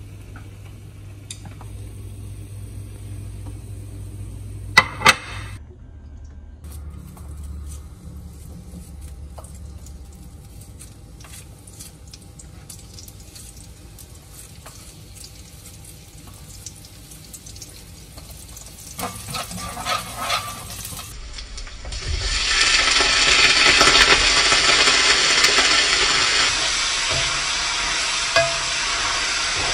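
Cooking sounds in a kitchen. Two sharp knocks come about five seconds in, followed by light scattered clinks of utensils. About three quarters of the way through, food starts frying in a hot pan with a loud, steady sizzle.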